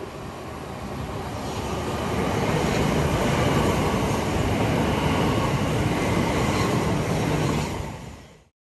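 Southeastern Class 377 Electrostar electric multiple unit passing close by, its noise growing louder over the first couple of seconds, holding steady, then fading out quickly near the end.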